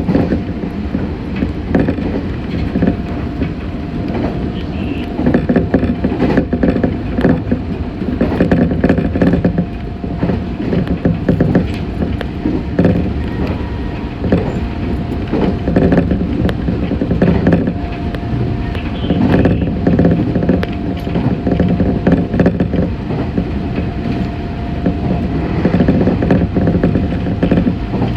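Meitetsu 6500 series electric train running along the line, heard from inside the car: a steady running rumble with irregular clatter from the wheels and rail joints, and a constant hum over it.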